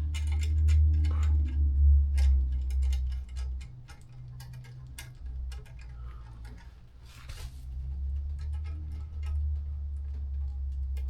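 Ratchet wrench clicking in short irregular runs as a bolt is tightened, over a low rumble that is loudest in the first few seconds.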